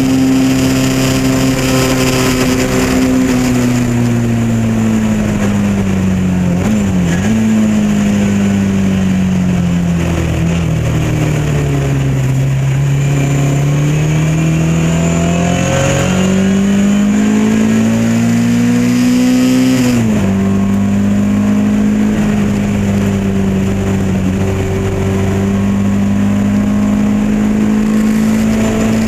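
Lotus Elan race car's engine under racing load. Its revs fall steadily as it slows, with a quick throttle blip on a downshift about seven seconds in. It then climbs through the revs and drops sharply on an upshift about twenty seconds in, running steadily after that.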